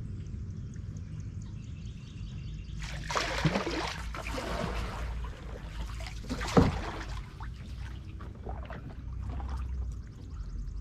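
Water splashing and trickling from kayak paddling: a longer wash about three seconds in and a sharper splash a few seconds later, over a low steady rumble.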